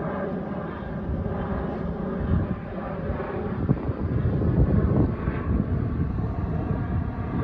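Dash 8-400's twin Pratt & Whitney PW150A turboprop engines running, a steady propeller drone over a low rumble.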